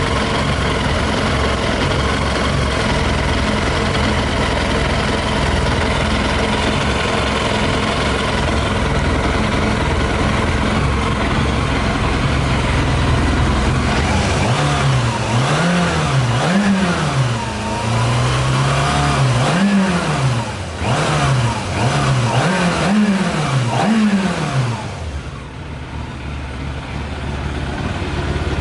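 Yamaha YZF 600R's carbureted inline-four engine running on whisky (40% alcohol) in the tank: steady idling, then revved in several short throttle blips from about halfway through, each rising and falling back, before settling to idle again.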